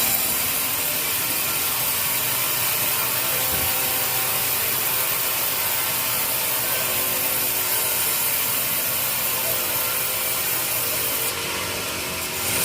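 Sawmill saw cutting through teak wood: a steady, dense noise with a little easing about a second before the end.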